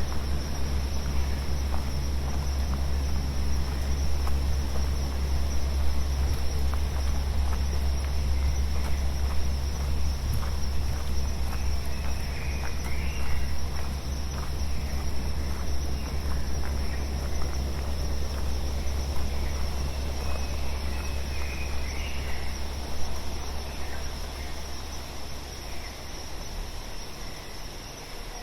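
Synthesized brown and pink noise from a VCV Rack modular patch, a steady deep rumble with hiss above, layered over a forest field recording with a steady high insect-like band and a few short bird chirps. The low rumble fades out near the end.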